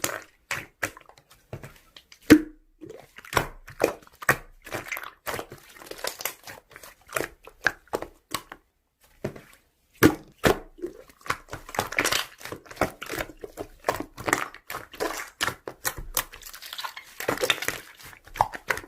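Slime being pressed, stretched and poked by hand, making a run of irregular sticky clicks, pops and crackles, with a few sharper pops.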